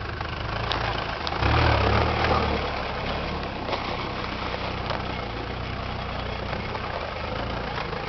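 Off-road 4x4's engine idling close by, with a brief rise in engine speed about a second and a half in before it settles back to idle.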